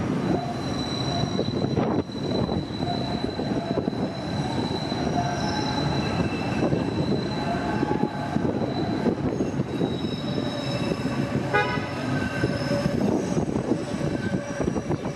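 CTA 'L' rapid-transit train running on the tracks: a steady rumble with the steel wheels squealing in thin, high tones that shift and waver. A short pitched tone sounds about two-thirds of the way through.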